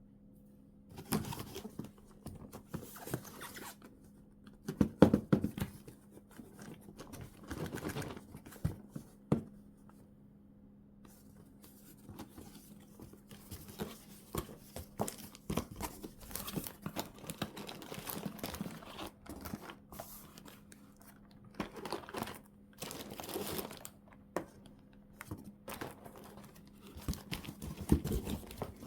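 Plastic packaging being crinkled and torn open by hand, in irregular bursts, the loudest about five seconds in, with a short lull around ten seconds. A faint steady hum lies underneath.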